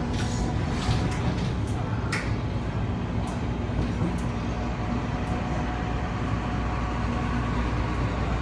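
Interior running noise of an MTR Metro Cammell electric multiple unit: a steady rumble of wheels on rail, with the steady hum of its GEC DC traction motors. A few sharp clicks and rattles come in the first two seconds.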